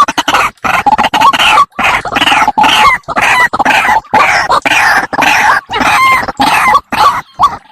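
White-breasted waterhen (ruak-ruak) calling: a rapid run of harsh, loud repeated call notes, two or three a second, used as a trapping lure call. Near the end the calls break into short, separate rising notes.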